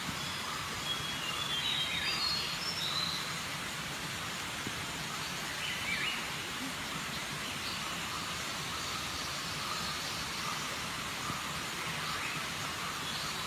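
Outdoor ambience: a steady even rushing noise with a few short high bird chirps, about one to three seconds in and again near the end.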